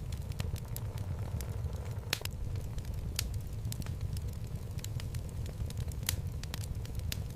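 Wood fire burning in a fireplace: a steady low rumble of the flames with irregular sharp crackles and pops from the logs, a louder pop about two seconds in and another about six seconds in.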